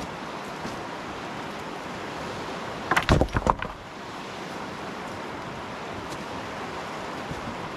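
Dry firewood being gathered: a quick cluster of several sharp cracks and knocks about three seconds in, over a steady hiss.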